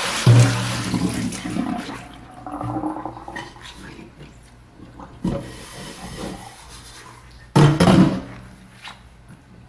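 Dishwashing at a sink: tap water runs for about the first two seconds, then quieter handling of dishes with a sharp knock about five seconds in, and a short loud rush of water about three-quarters of the way through.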